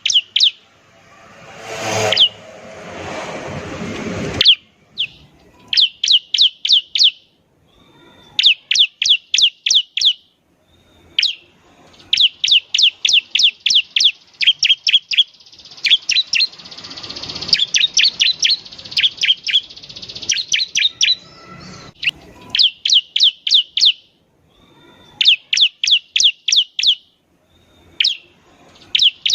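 Bar-winged prinia (ciblek) singing: repeated quick bursts of six to eight sharp, high, down-slurred notes, each burst about a second long with short gaps between. In the first four seconds, a rushing noise swells and cuts off abruptly twice.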